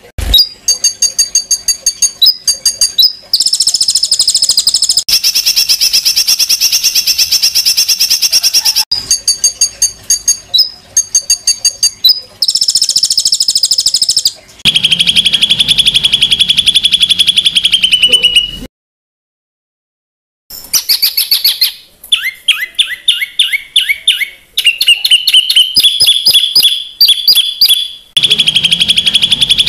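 Songbird song of harsh 'tembakan' phrases: rapid series of sharp, high chirps and fast trills that switch from one pattern to another. It cuts out completely for about two seconds about two-thirds of the way through, then resumes with new phrases.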